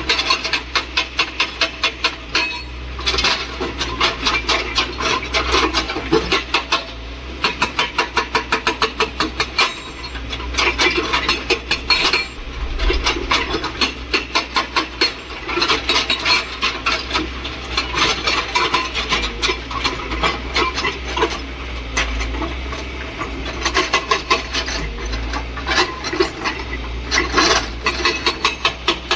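Hydraulic rock breaker on a JCB excavator hammering in rapid runs of blows, about ten a second, each run lasting a few seconds with short pauses between, over the machine's steady diesel engine drone.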